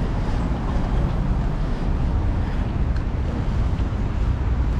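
Steady rough rumble of wind buffeting the microphone, heaviest in the low end.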